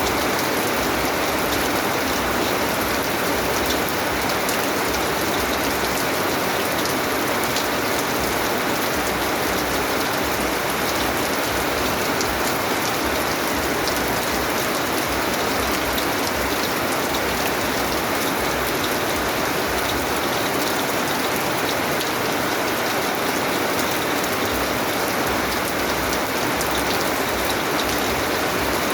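Steady rain falling: an even hiss with many scattered sharp ticks of individual drops.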